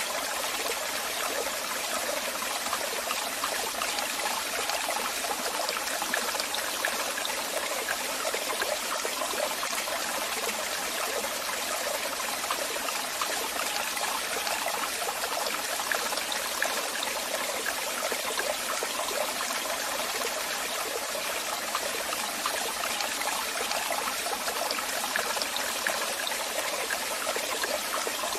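Waterfall: water falling and splashing in a steady rush, with the sound mostly high and hissing and little low rumble.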